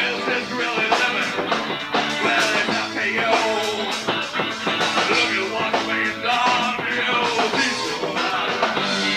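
Live rock band playing a song: guitar over bass guitar and drums.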